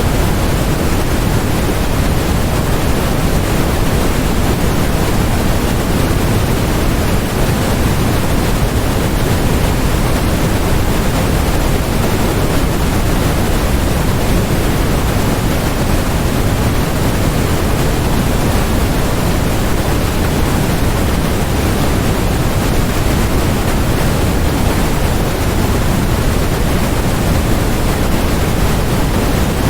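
Steady generated white noise: an even, unbroken hiss with no changes, fuller in the lows than in the highs.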